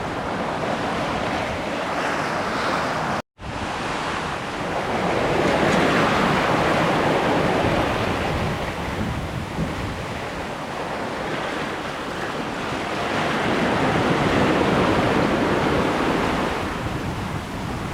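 Water rushing and splashing along the hull of an Island Packet sailboat under way, with wind buffeting the microphone. The rush swells and eases, and the sound cuts out for an instant about three seconds in.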